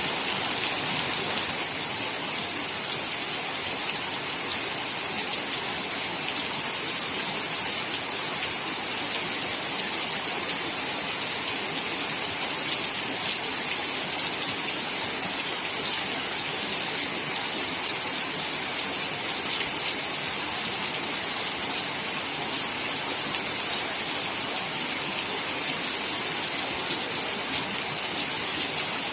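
Steady heavy rain falling: an even hiss with scattered faint drop ticks.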